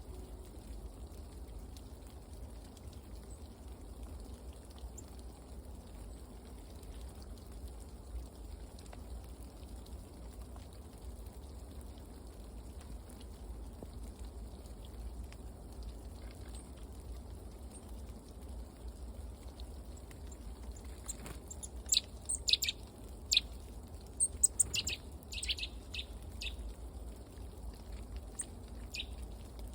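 Small birds giving a quick run of short, high chirps over a few seconds near the end, over a steady low background rumble.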